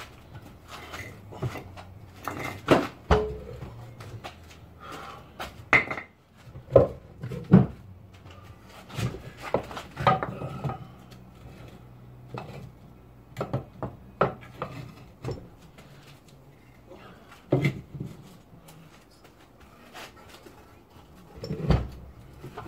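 Hand tools and loose metal parts clinking and knocking at irregular intervals while a car's front end is being dismantled.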